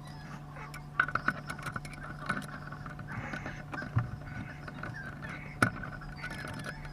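Irregular clicks, knocks and scraping from hard objects being handled, starting about a second in, over a steady low hum.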